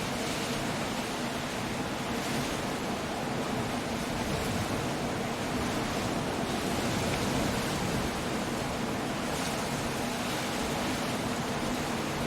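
Coastal storm ambience: a steady, dense roar of wind, rain and surf, swelling slightly now and then.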